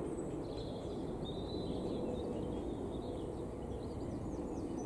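Small birds chirping in short calls, a few in the first second or two and more near the end, over a steady low outdoor background rumble.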